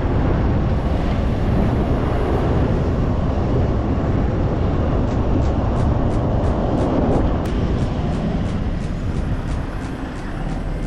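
Toyota Hilux engine working hard in deep, loose sand, loud and steady, with the rumble of the drive through the sand.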